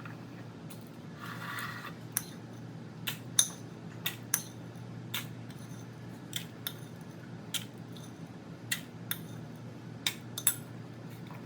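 About a dozen scattered clinks and taps of small kitchen utensils, a spoon and a small measuring cup against dessert cups and a bowl, as a crumb crust is spooned and pressed, over a faint steady low hum.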